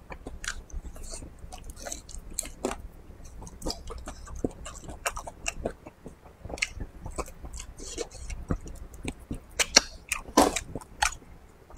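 Close-miked chewing of braised meat and rice: irregular wet smacks and clicks of the mouth, loudest around ten seconds in.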